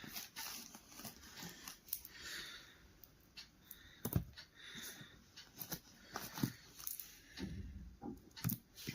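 Irregular clicks, knocks and rustling of hands handling parts, with a sharp knock about four seconds in and another near the end.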